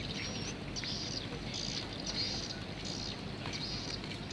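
Small birds chirping again and again, high-pitched, over a steady low rumble.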